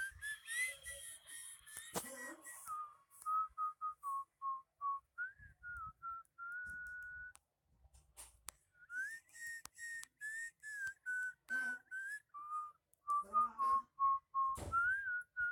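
A person whistling a tune: a single clear whistled line of short notes and held tones in phrases, with small breaks between them.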